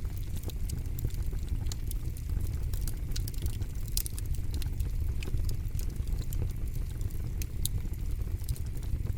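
Campfire burning, with frequent sharp crackles and pops over a low, steady rumble of the flames.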